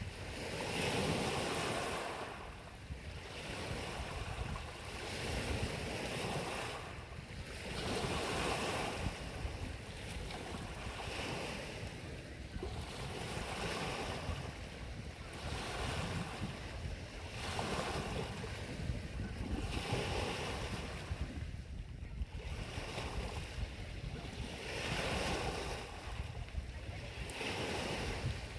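Small lake waves washing ashore on Lake Huron, the surf swelling and fading every couple of seconds, with wind rumbling on the microphone.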